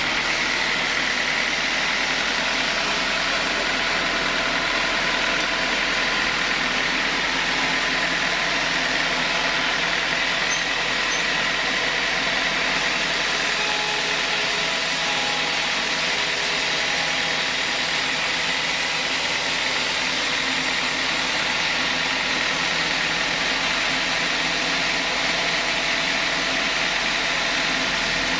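Sawmill saw machine running steadily, with a constant high whine over a dense hiss.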